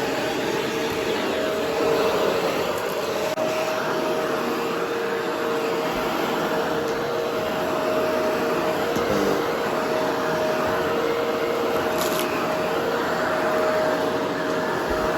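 Vacuum cleaner running steadily: a constant rush of air with a steady two-note motor whine.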